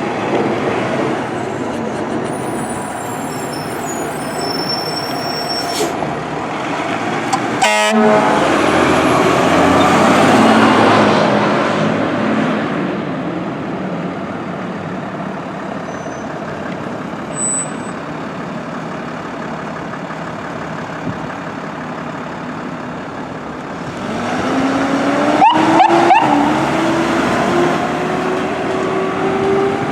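Fire engine on an emergency response: heavy truck engine and road noise, with horn blasts about 8 seconds in and again near the end, and a siren winding slowly upward in pitch over the last few seconds.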